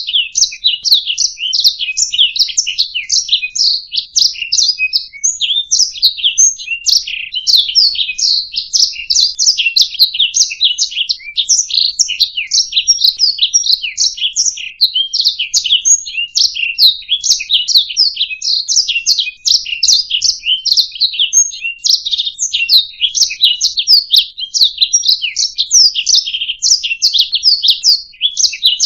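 Domestic canary singing one long, unbroken song of rapid high trills and chirps.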